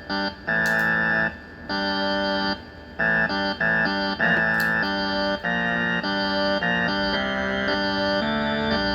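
Electronic keyboard playing a tune of held chords with an organ-like tone. Each chord stops cleanly, with short breaks between chords in the first few seconds, then the chords change more steadily.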